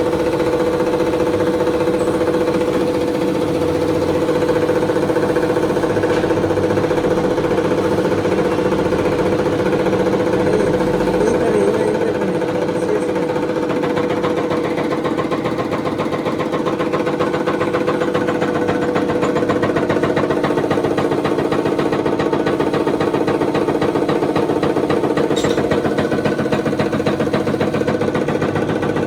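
Tractor engine running steadily at an even speed, with a fast, regular beat.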